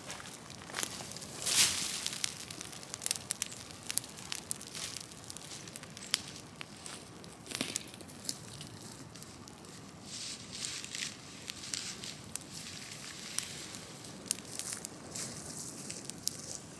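Large wood-and-branch bonfire burning in the open, crackling with irregular sharp pops and snaps; the loudest snap comes about a second and a half in.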